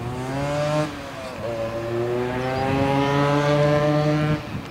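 A road vehicle's engine accelerating through the gears: its pitch climbs, drops at a gear change about a second in, climbs again for a few seconds, and drops at another shift near the end.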